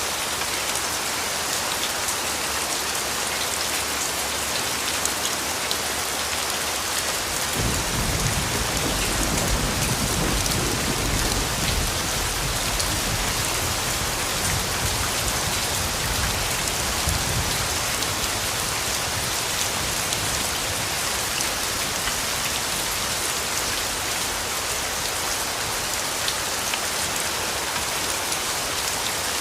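Steady rain falling, with a low roll of distant thunder that starts about a quarter of the way in, swells, and fades away over about ten seconds.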